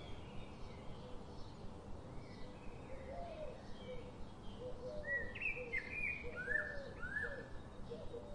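Birds chirping: a run of short, pitch-gliding chirps, loudest about five to seven seconds in, over a steady low background noise.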